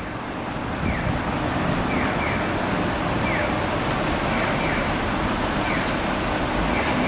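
Steady vehicle engine and street noise, slowly growing louder, with a thin high steady whine over it and faint short chirps repeating about once or twice a second.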